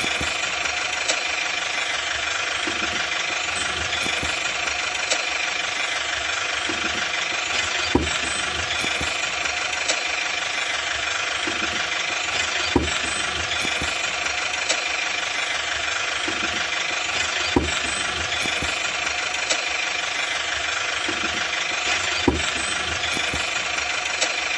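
Small electric motor and gear drive of a homemade toy tractor running steadily, with a sharp click or knock every few seconds.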